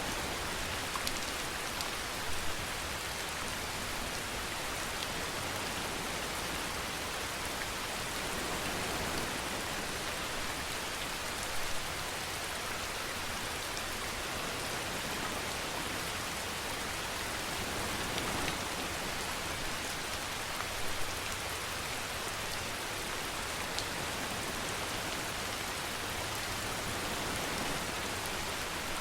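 Steady rainfall, an even hiss, with a few louder single drop hits now and then.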